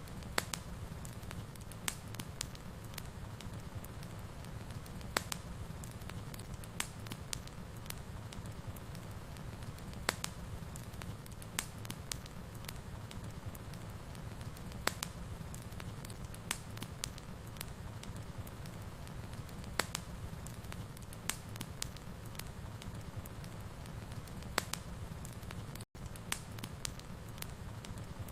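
Wood fire in a fireplace crackling, with sharp, irregular pops about once or twice a second over a steady low rumble of the flames. The sound cuts out for a split second near the end.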